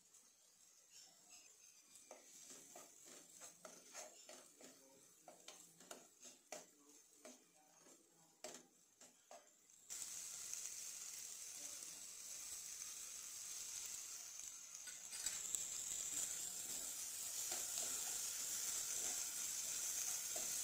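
A steel ladle scraping and clicking against a kadai as diced potato filling is stirred. About ten seconds in, a steady sizzle of the filling frying in oil starts suddenly and continues.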